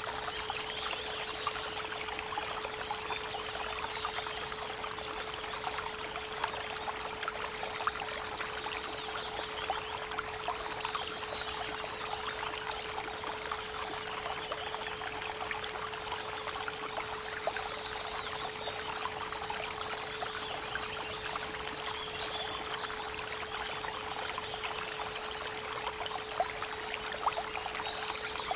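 Creek water running steadily, with a few short bird trills, over a steady 432 Hz pure tone.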